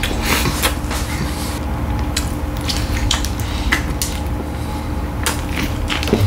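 A person chewing and eating McChicken sandwiches close to the microphone: irregular wet mouth clicks and squishes, over a faint steady hum.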